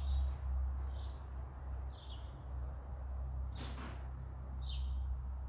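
A small bird chirping over and over, short high calls about once a second, over a steady low rumble. About three and a half seconds in there is a brief louder rush of noise.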